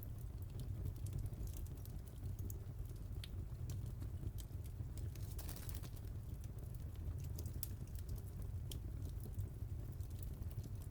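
Wood fire crackling in a fireplace: scattered sharp pops and snaps over a steady low rumble of the flames, with a short hiss about halfway through.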